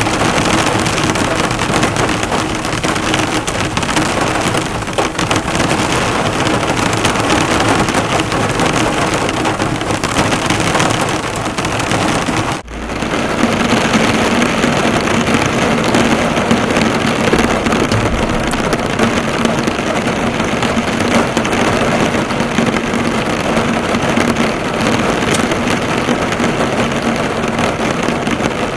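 Heavy rain falling hard on a car, the drops drumming and bouncing off the bonnet in a steady dense patter. The sound drops out for an instant about halfway through, then carries on as before.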